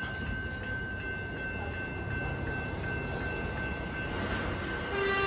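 Suburban electric train rumbling through a level crossing under a steady high-pitched tone, with the train's horn starting to sound near the end.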